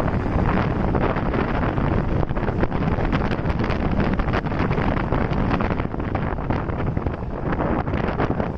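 Wind rushing and buffeting over the microphone of a moving motorbike, a dense continuous rumble that eases slightly near the end.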